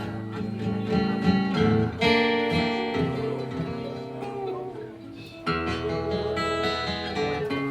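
Live band music without vocals: strummed acoustic guitar chords ringing out, with new chords struck about two seconds in and again a little past five seconds.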